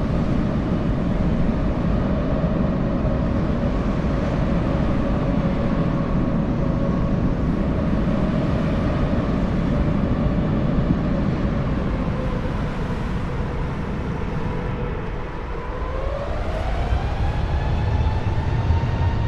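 Airliner jet engines heard from inside the cabin: a steady rumble with a whine that sinks slightly, then rises in pitch about sixteen seconds in as the engines spool up.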